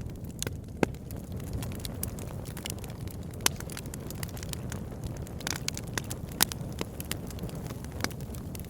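Campfire burning with a steady low rumble and irregular sharp crackles and pops of burning wood, a few of them louder than the rest.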